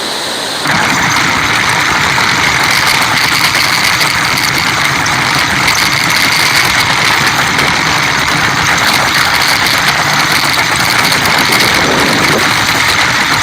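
Steady vehicle engine and road noise, as from a truck being driven, growing louder about a second in.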